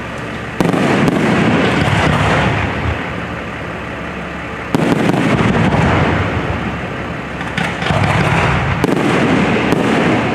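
Fireworks display: aerial shells bursting with three sudden loud booms about four seconds apart. Each boom is followed by a long rumbling echo that dies away, with scattered sharp crackles.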